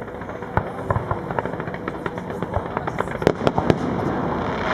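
Aerial fireworks going off: a rapid, uneven string of sharp pops and crackles from bursting shells and crackling stars. It grows denser and louder about three seconds in.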